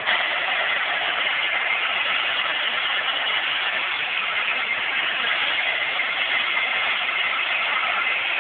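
Helicopter flying overhead: a steady engine and rotor noise with a faint whine.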